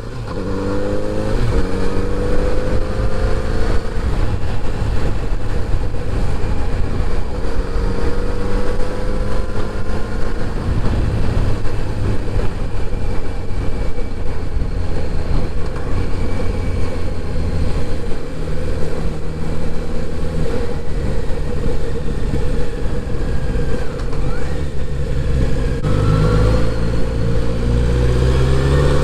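Kawasaki Z900RS inline-four motorcycle engine while riding: it revs up in pitch over the first few seconds, runs at a steadier cruise with a heavy low rumble of road and wind noise, then accelerates again near the end.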